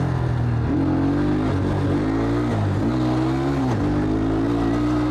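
Enduro motorcycle engine under load off-road, its revs climbing and dropping back several times as the throttle is worked, then holding steady and high near the end.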